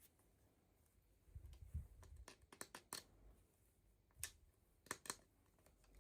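Small plastic toy packaging being handled: a scattered run of light clicks and taps, with a couple of soft low thumps about a second and a half in.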